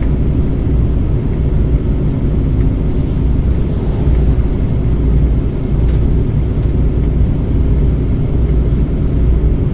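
Heavy truck's diesel engine and road noise heard inside the cab at steady highway cruising speed: a constant low drone.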